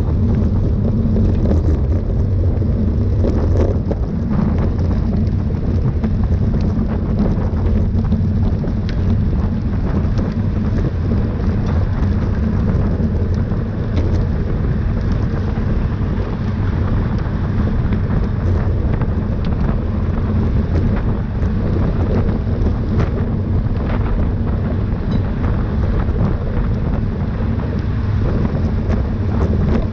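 Steady wind buffeting on the microphone of a camera riding along in a bicycle race, a low rumbling rush with faint scattered ticks.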